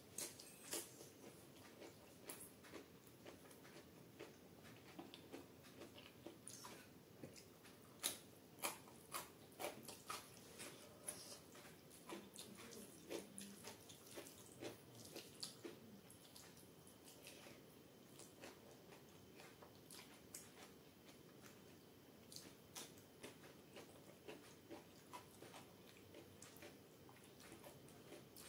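Faint close-up eating sounds: wet chewing and smacking mouth clicks of a mouthful of rice and chana dal dubke, with the soft squish of the rice and dal being mixed by hand on the plate.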